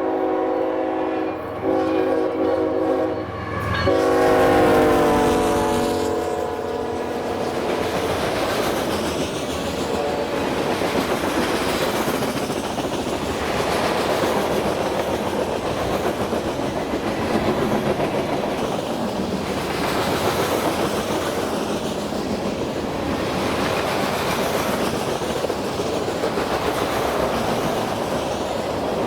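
Freight train diesel locomotive horn blowing two short blasts, then a longer one that drops in pitch as the locomotive passes. After that, the train's cars roll by with a steady clatter of wheels over rail joints.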